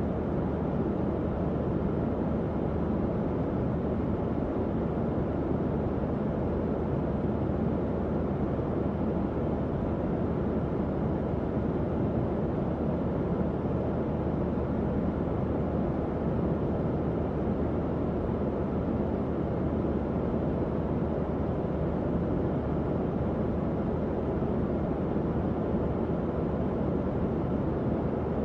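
Tower fan running steadily: an even, low-pitched whoosh of moving air with a faint motor hum underneath.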